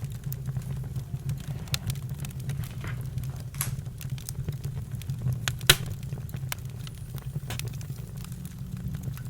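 Campfire crackling, with irregular sharp pops over a low steady rumble; one loud pop comes about two-thirds of the way through.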